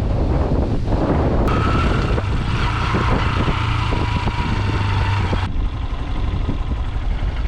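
Heavy wind rumble buffeting the microphone over a running motor vehicle. A whining tone sits on top for about four seconds in the middle, falling slightly in pitch and cutting off abruptly.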